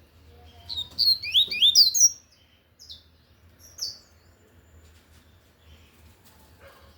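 Double-collared seedeater (coleiro) singing the tui-tui song type: a rapid, loud phrase of quick sweeping whistled notes about a second in, then two short single notes a second or two later.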